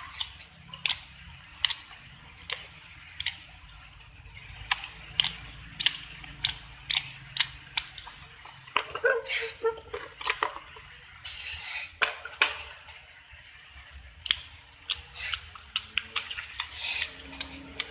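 Slime being squeezed and poked by hand, making irregular wet clicks and pops, several a second, with a few longer squelches.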